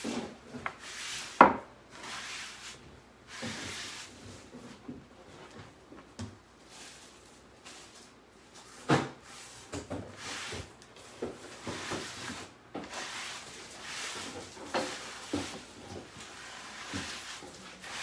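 Hands rubbing and smoothing an adhesive stencil transfer down onto a wooden board to press out air bubbles, with scattered knocks and clicks of handling, the sharpest about one and a half seconds in and again about nine seconds in.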